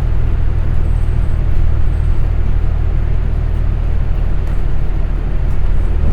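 Steady low rumble of a city transit bus's engine and road noise, heard from inside the bus as it drives.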